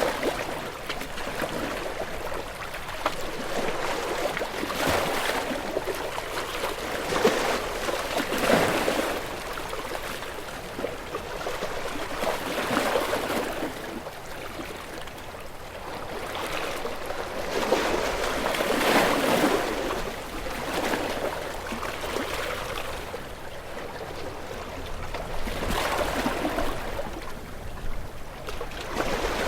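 Ocean waves washing in, a rush of water that swells and fades every few seconds.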